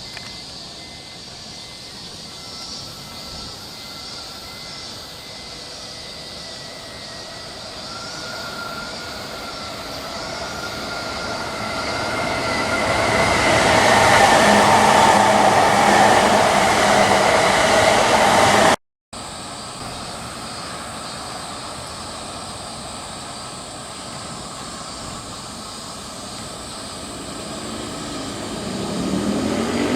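Electric train approaching and passing on the line, growing louder to its peak a little past halfway, with thin steady tones over the rumble of the wheels. The sound cuts off abruptly, then resumes as a quieter steady rumble that builds again near the end.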